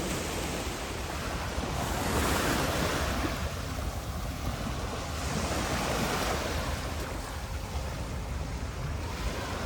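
Sea surf washing onto a sandy beach, two waves swelling in and fading, with a low wind rumble on the microphone.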